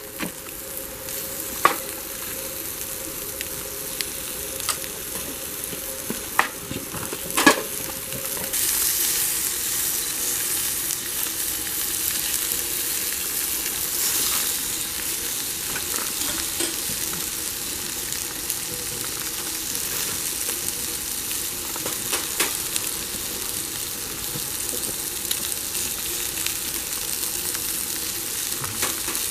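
Food sizzling and spitting in its fat over a wood campfire, a steady hiss with a few sharp pops early on, growing louder about a third of the way in.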